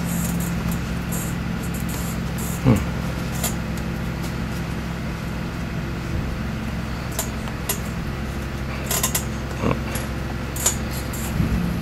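Leather lace being pulled and worked through a catcher's mitt: scattered creaks and ticks, with a short squeak of leather sliding down in pitch a little under three seconds in and smaller ones later. A steady low hum runs underneath.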